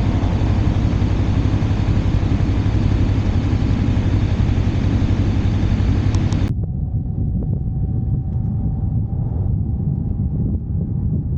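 Motorcycle on the move: the engine's steady low drone under a wide rush of wind noise on the microphone. About two-thirds of the way through, the hiss cuts off suddenly, leaving the low engine drone and a faint steady whine.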